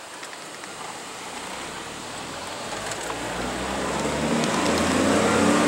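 A motor vehicle approaching, its engine growing louder from about halfway through, over a steady rushing noise.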